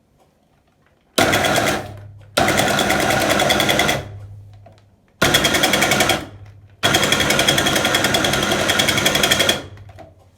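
WMF espresso machine buzzing loudly in four bursts, the first two short and the last nearly three seconds long, with a low hum between them.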